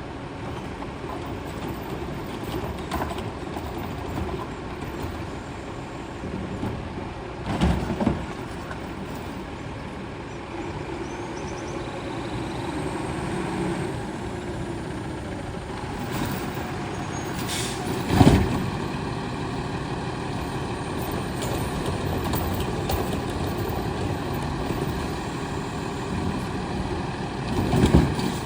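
Heil STARR automated side-loader garbage truck running steadily, with three sudden loud bursts about ten seconds apart.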